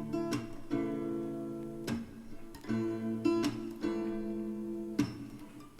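Gentle song with no singing: acoustic guitar chords struck and left to ring, a new chord roughly every second.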